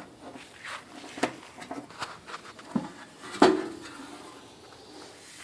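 Light knocks and clicks on the heavy steel bodywork of a 1968 Case 195 garden tractor, with one loud metallic knock about three and a half seconds in that rings briefly.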